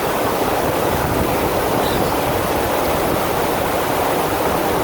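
FlowRider surf machine's sheet of pumped water rushing steadily over the ride surface.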